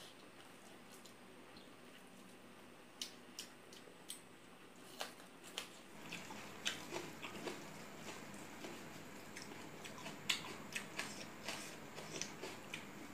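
Close-miked eating by hand: chewing and lip smacks with scattered small clicks and wet squishes as rice and egg curry are mixed and eaten, coming thicker from about halfway.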